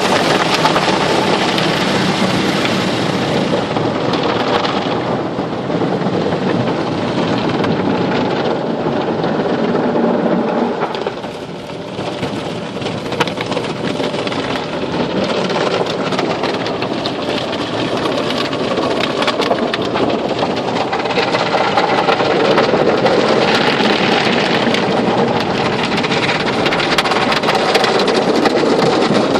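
Car wash running: water spraying and drumming on a car, a loud continuous rush that dips briefly about eleven seconds in.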